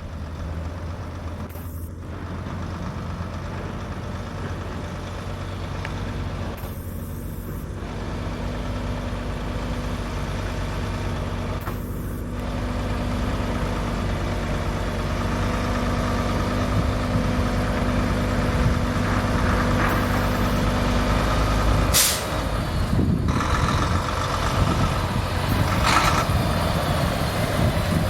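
Mack dump truck's diesel engine running as the truck drives off, its steady low hum growing louder. About three quarters of the way through comes a short, sharp hiss of the air brakes, with a fainter one a few seconds later.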